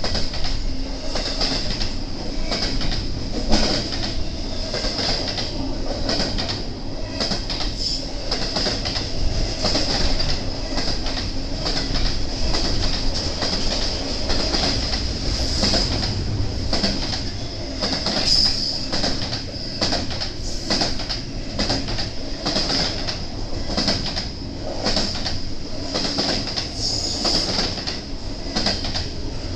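BNSF intermodal freight train's cars rolling past, wheels clacking over the rail joints in an uneven run of knocks under a steady high-pitched wheel squeal.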